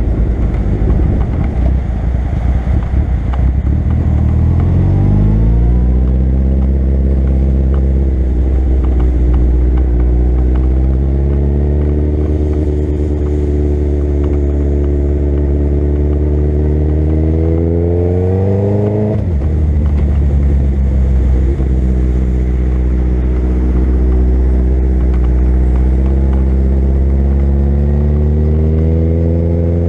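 Suzuki Hayabusa's inline-four engine under way, revs climbing as it accelerates. The pitch steps down about a quarter of the way in, climbs slowly for a long stretch, falls sharply about two-thirds of the way in as the throttle comes off, then climbs again.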